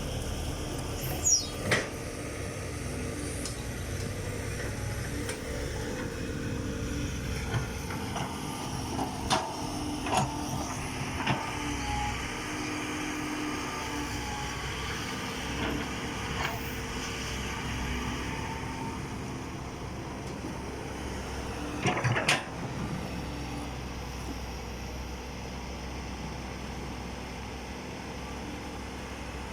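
Heavy diesel engines running steadily, from an excavator and a dump truck during loading at a dirt pit. A few sharp knocks and clanks break in, the loudest coming about 22 seconds in.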